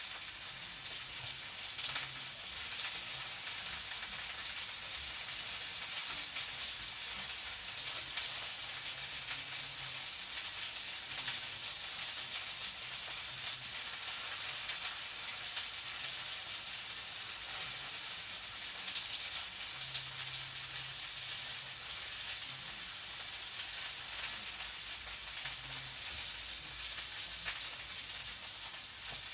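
Food frying in a pan: a steady sizzle with small crackling pops.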